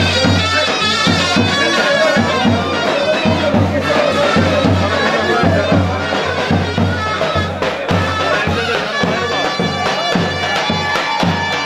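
Traditional folk music: a shrill reed wind instrument plays a melody over a steady, regular drum beat.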